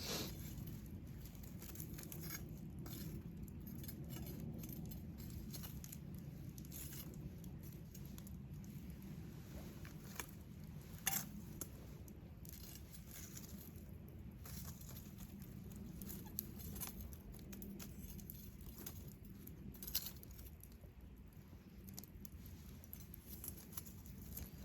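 Wood campfire burning: a low steady rumble with scattered sharp crackles and pops, two louder pops standing out, one near the middle and one later on.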